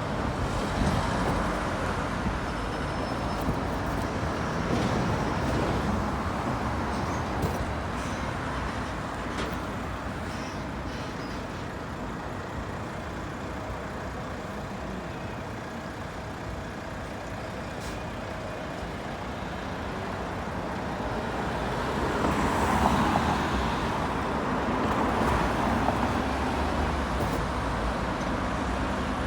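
Road traffic with buses and cars going past on a busy street. It swells as vehicles pass close, about five seconds in and again for several seconds near the end.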